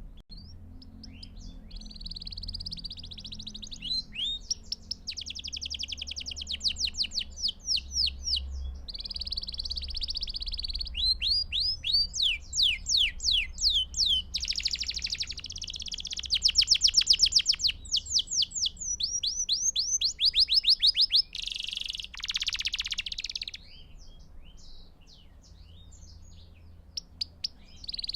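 Belgian canary singing a long song made of rapid trills: each tour is a fast run of repeated notes, switching to a new tour every one to two seconds, with a harsher rattling phrase near the end before the song fades into a few scattered notes.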